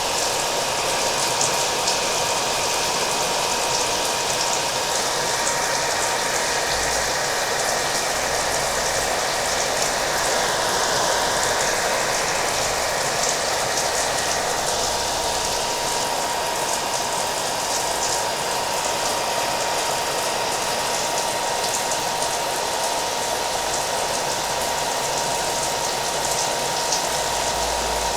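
A hair dryer blowing steadily, with a thin steady whine from its motor, mixed with the sound of rain.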